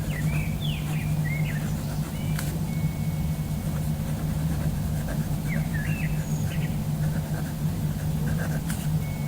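Small birds chirping in short rising and falling phrases now and then, over a steady low hum, with a couple of faint clicks.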